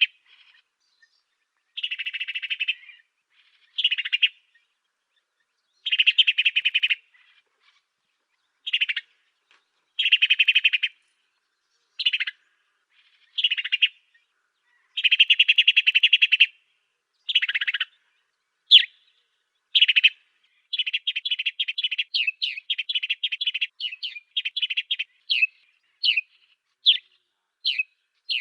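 Song of the African sparrow known in Indonesia as burung gereja Afrika: phrases of fast, buzzy chirping about a second long, separated by short pauses. From about two-thirds of the way in, the phrases give way to a quick run of short, separate chirps.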